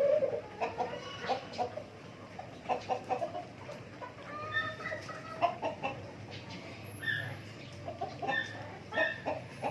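A flock of native chickens clucking, with many short calls following one after another.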